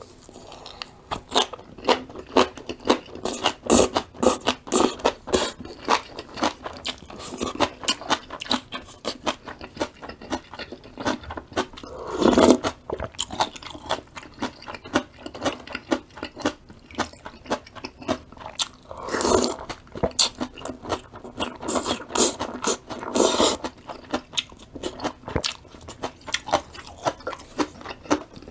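Close-miked eating: continuous rapid crunching and chewing of crisp vegetables such as sweet potato stem kimchi and bean sprouts, with a few louder bursts along the way.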